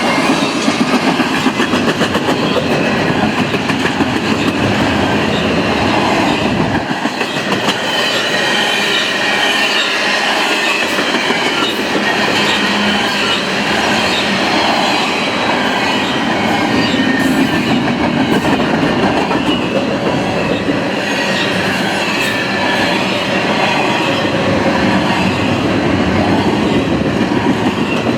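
Double-stack intermodal well cars of a long freight train rolling past at speed: a steady loud rumble and rattle of steel wheels on rail, with fast clicking over the rail joints and a faint high wheel squeal.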